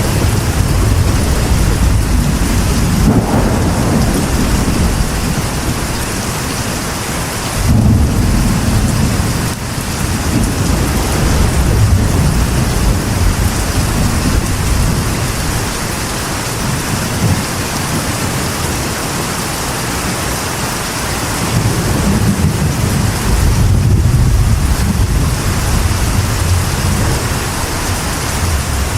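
Steady heavy rain on a metal roof with rolling thunder; low rumbles swell and fade several times, strongest around a few seconds in, around eight seconds in and near the end.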